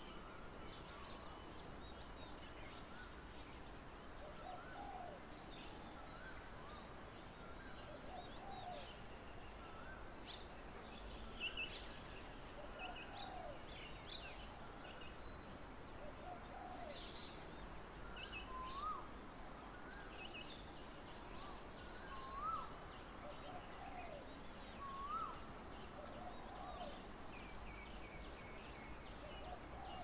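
Birds calling: a short, hooked, rising call repeats every couple of seconds, with higher chirps from other birds in between, over a steady outdoor hiss.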